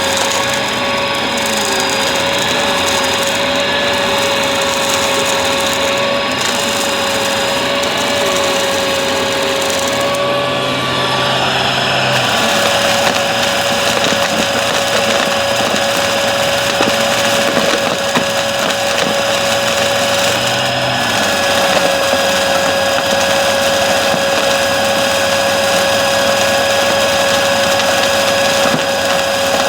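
Bissell vacuum cleaner running steadily, its motor giving a constant whine over a rushing air sound. About twelve seconds in, the rush becomes fuller and brighter and then holds steady.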